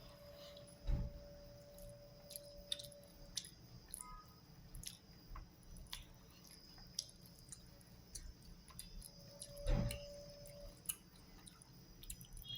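A person eating rice and fried chicken close to the microphone: chewing with many small wet clicks. Two dull thumps stand out, one about a second in and one near the end.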